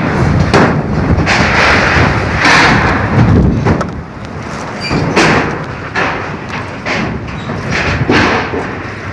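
Strong storm wind gusting in uneven surges and buffeting the microphone, with several sharp thumps.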